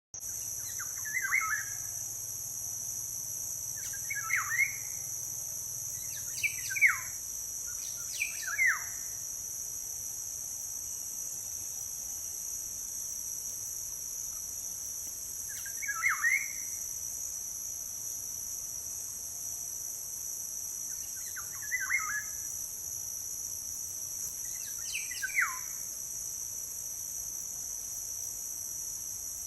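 Kopandang bird calling: short, quick notes sweeping downward, about seven of them a few seconds apart, some doubled. A steady high-pitched insect drone runs underneath.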